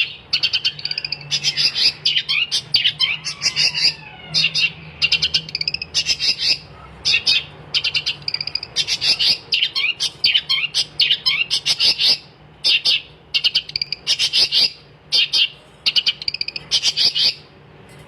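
Long-tailed shrike singing in full voice: rapid, scratchy chattering phrases about a second long, one after another with brief pauses. A faint low hum runs underneath.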